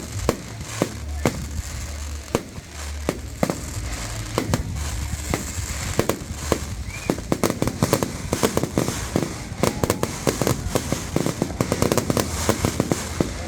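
Firecrackers going off in a run of sharp pops, irregular and scattered at first, then coming faster and denser through the second half.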